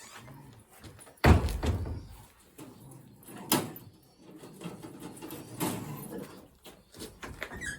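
A loud knock a little over a second in, then a sharper click and a weaker knock, with quiet handling noise between them.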